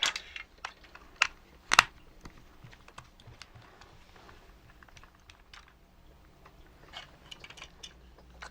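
Scattered sharp clicks and knocks of small plastic robot parts and tools being handled during disassembly. The two loudest knocks come about a second in, then fainter ticks, with a run of clicks near the end.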